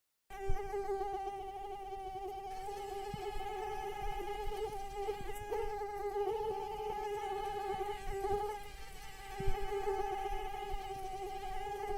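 Mosquito in flight, its wings making a steady high whine with a fundamental around 400 Hz and many overtones. It cuts in abruptly just after the start, wavers a little in pitch and loudness, and dips briefly about two-thirds of the way through.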